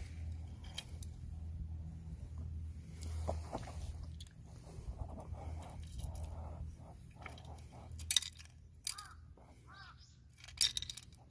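Metal parts and tools being handled, clinking sharply a few times in the second half, over a steady low hum.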